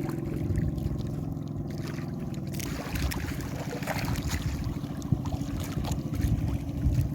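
Small fishing boat's engine running steadily, with water splashing against the hull; the splashing grows choppier a few seconds in.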